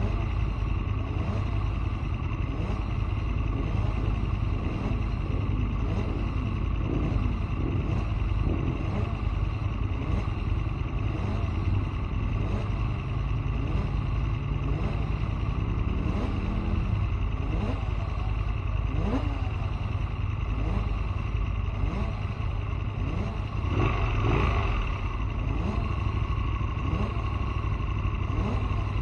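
Aprilia Tuono motorcycle engine at speed on a track lap, revs repeatedly climbing and dropping through gear changes, over a steady low rumble. A short louder surge comes about 24 seconds in.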